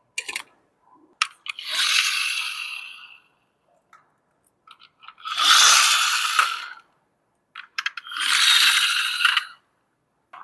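Toy packaging being handled and pulled open: three long rustling, scraping stretches of about two seconds each, with small clicks and taps between them.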